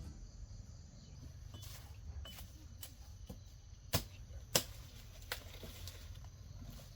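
A scatter of short, sharp knocks or cracks over a faint low rumble, the loudest two about four seconds in, half a second apart.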